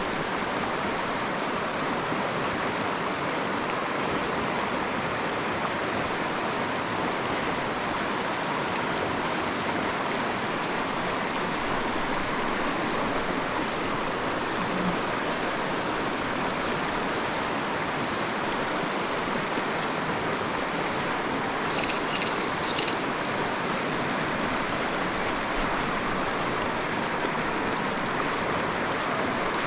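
Steady rushing of a small mountain creek's current, an even wash of water noise with no let-up. A brief cluster of short high ticks sounds about three quarters of the way through.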